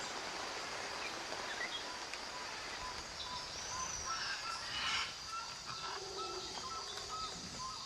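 Steady rainfall hissing on rainforest foliage, with a series of short repeated high calls from an animal in the forest starting partway through, and one brief louder patter near the middle.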